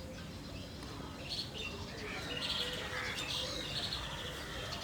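Small birds chirping, many short calls overlapping, growing busier from about a second and a half in.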